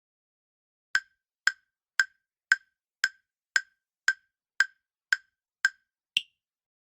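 Quiz countdown timer sound effect: ten short, sharp ticks, about two a second, then a final higher-pitched tick that ends the countdown.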